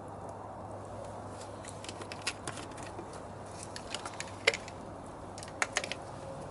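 Wood fire crackling: irregular sharp pops and snaps, clustered around two, four and five and a half seconds in, over a steady low background.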